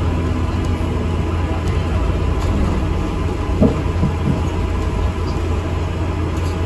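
Inside an ADL Enviro 400 MMC double-decker bus on the move: a steady low rumble of engine and road, with a couple of brief knocks a little past halfway.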